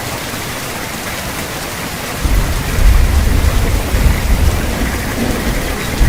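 Steady rain falling, with a deep rumble of thunder that rolls in about two seconds in and keeps going to the end.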